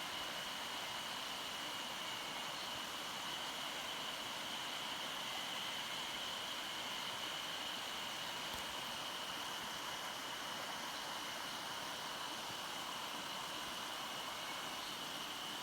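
Mountain stream water rushing steadily over rocks, with a faint steady high-pitched tone running over it.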